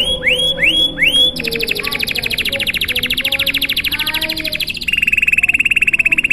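Domestic canary singing a long, unbroken song. It opens with a few upward-sweeping notes, then a rapid trill held for about three seconds, and near the end switches to a lower-pitched rapid trill.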